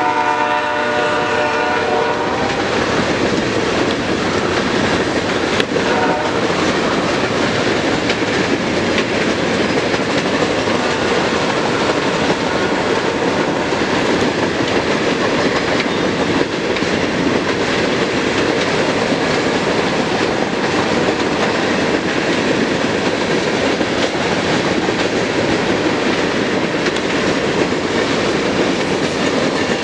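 Loaded CSX coke train rolling past at speed: a steady rumble with wheel clatter from the coke hopper cars on the rails. A locomotive horn chord fades out over the first two seconds or so.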